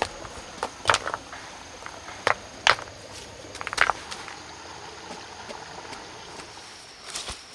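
A few sharp, irregularly spaced knocks, about five in the first four seconds, over a steady faint background hiss.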